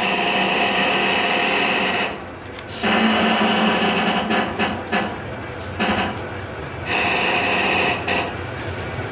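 Freight wagon running gear: a loud metallic whine of several steady pitches that comes and goes in stretches of a second or two, with clicks and rattles in between.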